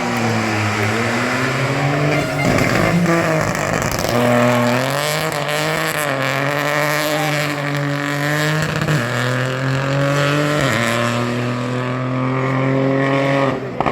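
Rally car engine at high revs on a special stage, its pitch climbing and dropping several times as it shifts gears and lifts, breaking off abruptly near the end.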